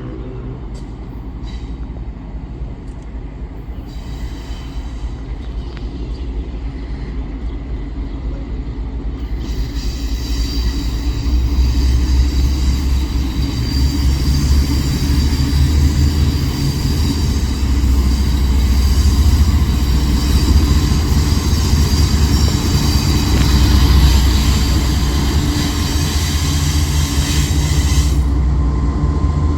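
Loaded bauxite ore freight train passing, its diesel locomotive rumble growing louder over the first ten seconds. High ringing wheel squeal joins about ten seconds in and cuts off suddenly near the end.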